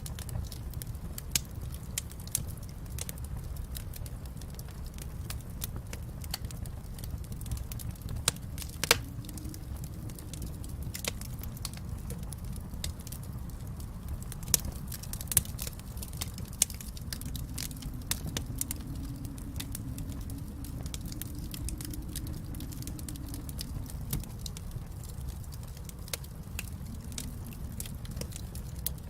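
Wood fire burning with a steady low rumble and frequent irregular crackles and pops, a few of them louder.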